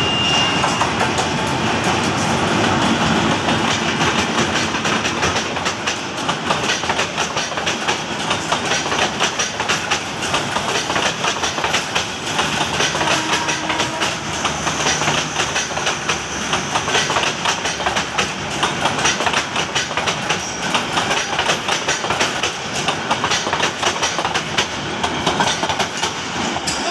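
Diesel-hauled Bangladesh Railway commuter train passing close by: the locomotive's engine is loudest in the first few seconds, then a long rake of coaches rolls past with a rapid, continuous clickety-clack of wheels over the rail joints.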